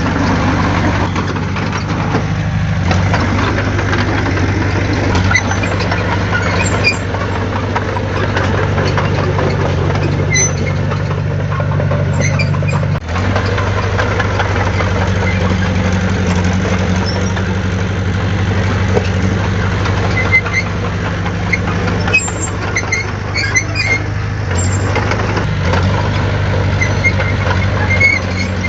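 Heavy diesel earthmoving machinery running steadily, its engine note shifting up and down a few times, with scattered light metallic squeaks and clinks.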